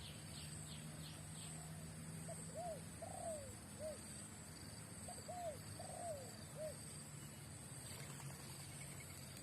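Spotted dove cooing: two phrases of four short arched coos, the first starting about two seconds in and the second about five seconds in.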